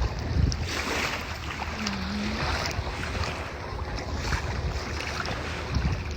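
Steady rushing outdoor noise of wind on the microphone with a low rumble, swelling a few times.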